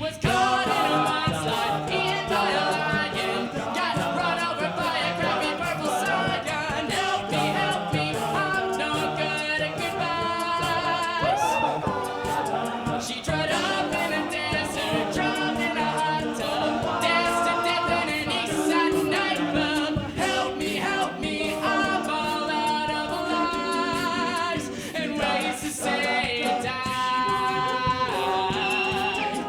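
All-male a cappella group singing a pop song in several-part harmony, with vocal percussion keeping a steady beat underneath.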